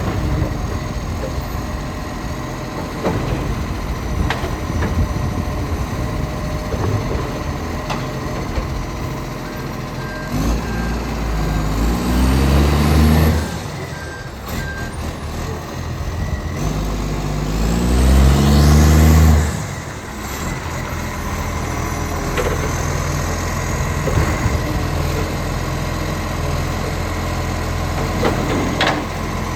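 ACCO garbage truck's diesel engine, which has an exhaust leak, idling and revving up twice for about three seconds each, its pitch climbing before it drops back to idle. Faint short beeps sound around the first rev.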